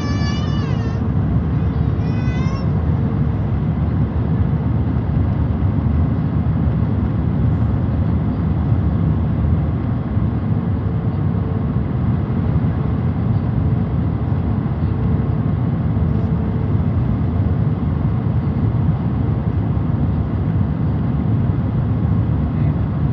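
Steady rushing cabin noise inside an airliner from its engines and airflow, during the descent before landing, with a faint steady hum that comes and goes. A short, high, wavering cry is heard twice in the first few seconds.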